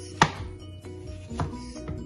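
A knife chopping through watermelon onto a cutting board: a sharp knock about a quarter second in, the loudest sound, then two lighter knocks in the second half, over background music.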